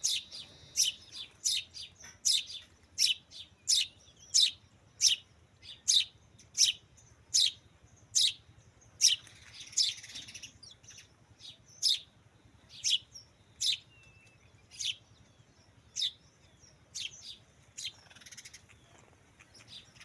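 A bird chirping over and over in short, sharp, high chirps, about one every second at first and more spaced out later. A brief rustle comes about halfway through and again near the end.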